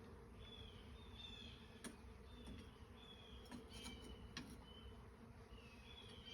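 Honeybees buzzing faintly around opened comb in a low, steady hum, with several short high-pitched chirps scattered through it.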